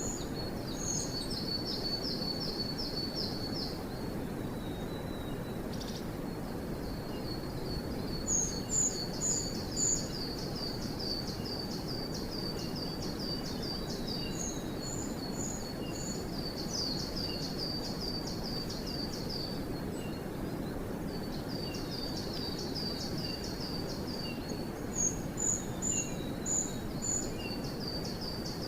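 Small forest songbirds singing, more than one voice. One repeats fast trills of short high notes. Several times there is a short series of brighter, higher notes, the loudest sounds, all over a steady low rush of background noise.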